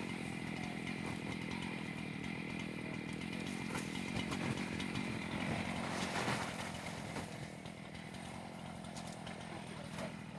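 Small engine running steadily at a constant high speed, with a slight drop in level after about six seconds.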